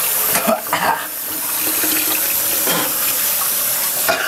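Water running steadily, with two short loud bursts about half a second in and again near the end.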